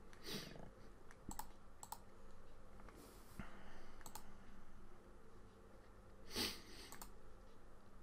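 A few faint, scattered clicks of computer input, about five spread over several seconds, with a slightly louder soft noise about six seconds in.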